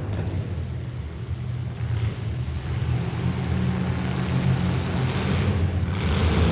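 Demolition derby car engines running, a low steady rumble that grows louder toward the end, with no crash impacts.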